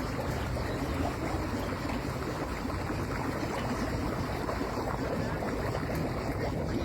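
Steady rushing noise of moving water, even and unbroken, with a low rumble underneath.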